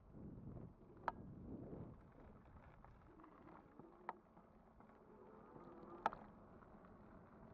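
Electric bike in motion: a faint buzzing hum from the motor over low wind and tyre noise, with three sharp clicks or rattles about a second, four seconds and six seconds in.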